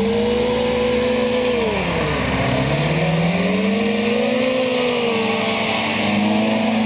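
A classic Lada saloon's four-cylinder engine revs hard under load as the car drives through deep mud. The revs sag about two seconds in, then climb again and stay high.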